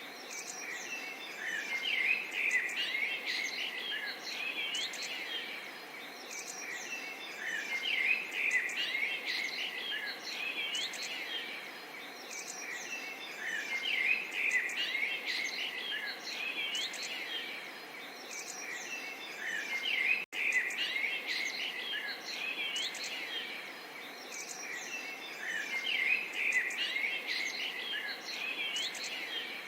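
Many small songbirds chirping and trilling in a dense, continuous chorus over a soft, steady babble of water. The sound cuts out for an instant about two-thirds of the way through.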